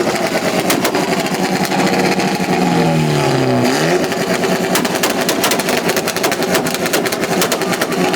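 Subaru's engine held on a two-step launch limiter, popping and crackling rapidly. About three seconds in, its pitch drops and then climbs again.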